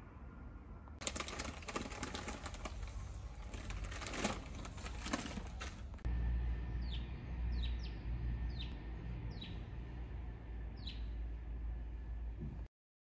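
A small bird chirping outdoors: short calls that fall in pitch, about one a second, over a low steady rumble. Before that, a few seconds of rustling crackle stops abruptly.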